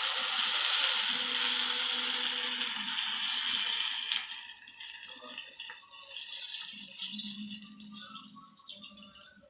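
Hot water poured into a pot of sautéed onion and shrimp shells, splashing and hissing for about four seconds, then much quieter.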